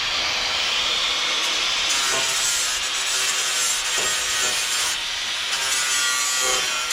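Steady rasping and scraping of a tool working on metal, the broken hood catch of a truck being cut or ground back before welding.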